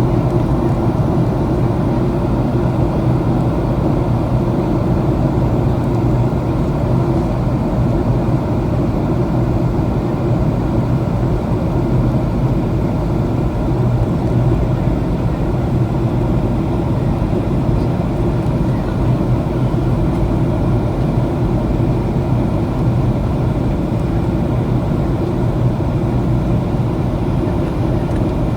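Steady cabin noise inside a Boeing 737 airliner on approach: jet engine drone and rushing airflow, with a steady low hum and no change in level.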